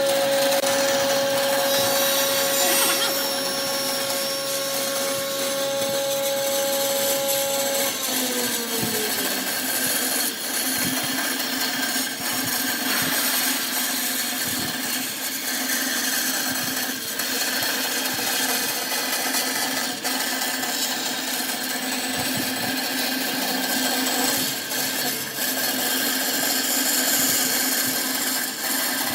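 Wood lathe motor running with a steady whine that drops in pitch about eight seconds in, then runs on lower under the continuous scraping hiss of a turning tool cutting wood.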